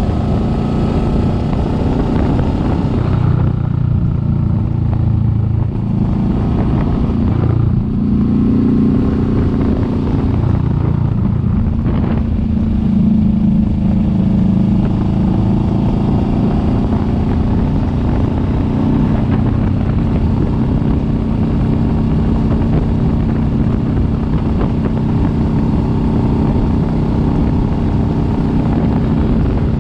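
Kawasaki Vulcan S 650's parallel-twin engine running under way, with its pitch changing a few times in the first dozen seconds as the throttle and gears change, then holding steady.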